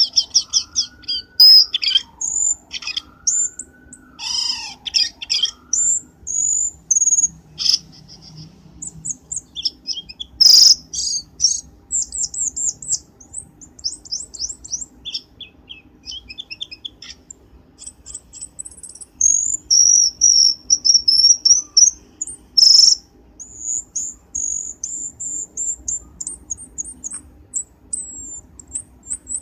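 Cucak keling bird lure call: rapid high chirps and trills, with a run of lower looping whistles in the first few seconds and a few sharp loud notes around the middle and later on.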